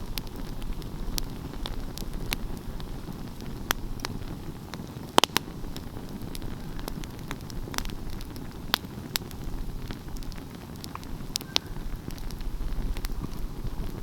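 Wood fire crackling: frequent irregular sharp pops and snaps over a steady low rumble, the loudest pop about five seconds in.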